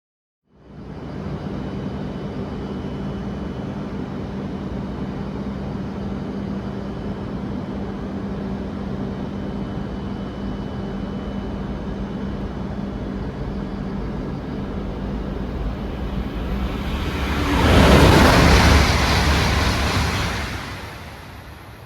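Shinkansen bullet train passing at high speed: a steady rumble with a low hum, then a loud rush of air and wheel noise that peaks about eighteen seconds in and falls away near the end.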